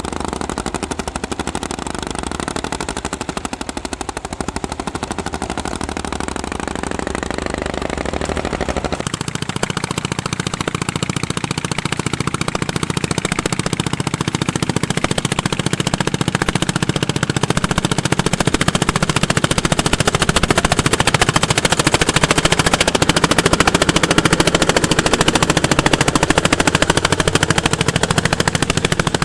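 Single-cylinder two-stroke hot-bulb tractor engines working at ploughing, the exhaust firing in a rapid, even popping beat. The tone shifts about nine seconds in, and the sound grows louder through the second half.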